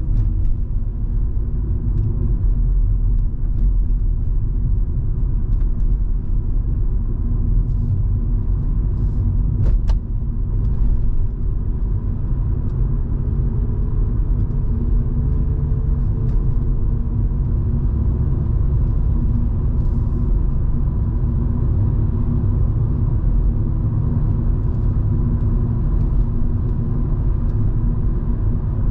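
Volvo V70 2.5T's turbocharged five-cylinder petrol engine and road rumble heard from inside the cabin while driving, a steady low drone. About ten seconds in there is a brief click and a short dip in loudness, after which a faint tone rises slowly for several seconds.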